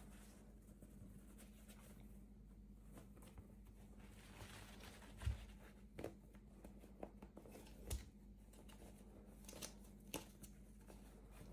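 Quiet handling of small toy packaging: scattered light taps, clicks and soft rustles over a faint steady hum, with two dull thumps, the louder about five seconds in.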